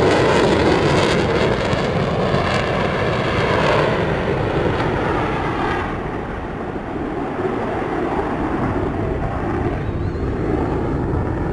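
Jet noise from a Eurofighter Typhoon's twin EJ200 turbofans during a display pass: a loud, steady roar whose higher hiss fades about halfway through as the jet moves away, leaving a lower rumble.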